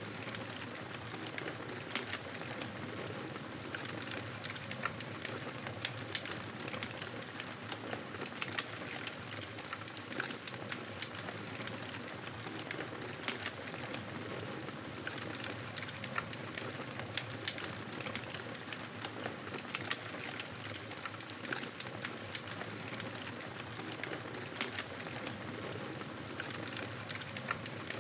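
Wood fire crackling in a fireplace: a steady hiss of burning with frequent small, sharp pops scattered irregularly throughout.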